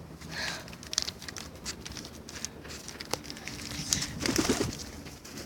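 A flock of pigeons cooing, with a low coo about four seconds in, amid many short taps and rustles.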